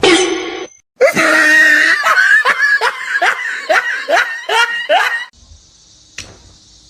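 A person laughing hard in a run of quick bursts, each dropping in pitch. The laughing cuts off abruptly about five seconds in, leaving a faint high hiss.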